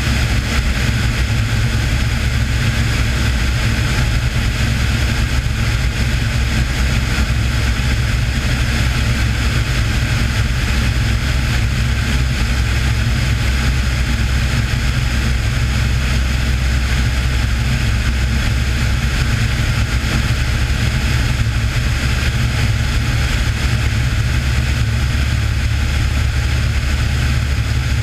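Cessna 182's six-cylinder piston engine and propeller running steadily in flight, a constant low drone with a steady hiss over it.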